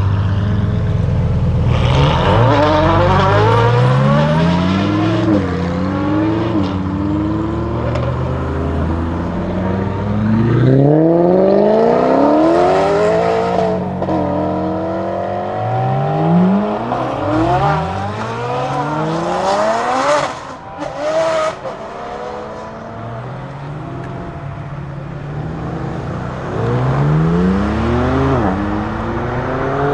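Lamborghini Huracan STO's naturally aspirated V10 accelerating hard on track. The engine note climbs through the gears again and again, each rise cut short by a quick upshift, as the car passes.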